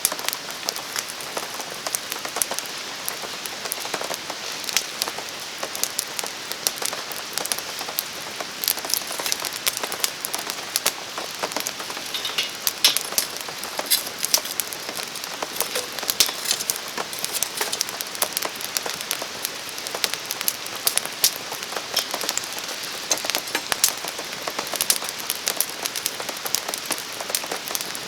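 Steady rain falling, with many separate drops landing as sharp ticks, and a wood campfire crackling alongside.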